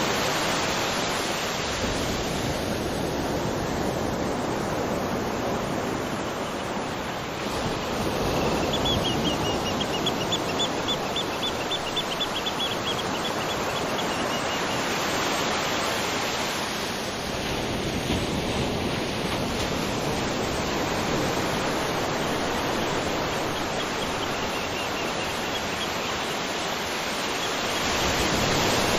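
Waterfall: a steady, full rush of falling water. A faint, rapid series of high chirps, like an insect or small bird, sounds in the background for a few seconds about a third of the way in.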